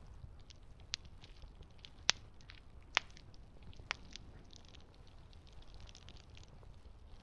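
Campfire crackling: a scatter of small snaps and four louder sharp pops about a second apart, over a low steady rumble.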